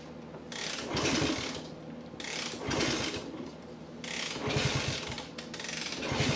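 1964 Honda C200's 90 cc single-cylinder pushrod engine being kick-started about four times. Each kick spins the engine over briefly with a quick mechanical churn, but it never fires: the engine is not starting despite fuel and spark.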